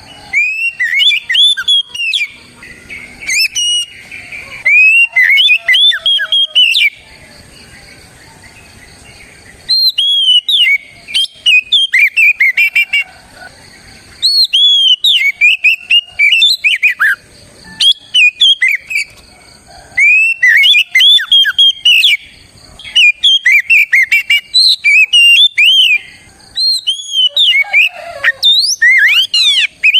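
Oriental magpie-robin (kacer) singing loud, varied whistled phrases of rising and falling notes, in bouts of a few seconds separated by short pauses.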